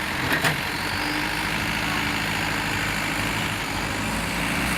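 Heavy truck diesel engine running steadily at a low rumble, with a couple of brief knocks about half a second in.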